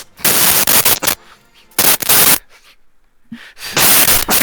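Loud, harsh distorted noise from an overdriven microphone, coming in three abrupt blasts of under a second each with short quiet gaps between.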